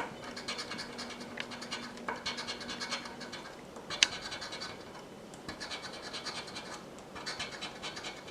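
Scratch-off lottery ticket being scratched in bursts of quick, rapid strokes, with one sharp click about halfway through.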